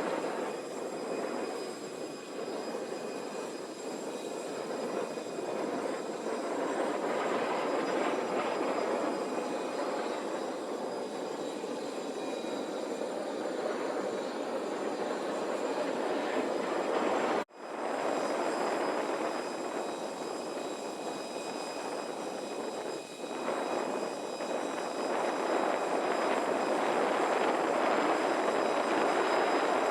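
Steady jet aircraft noise on an airport ramp: a constant rushing with thin high whines, broken by a sudden cut a little past halfway.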